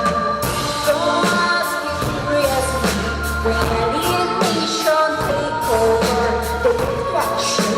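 Live band performance: a singer over bass, drums and keyboards, with a heavy pulsing bass line.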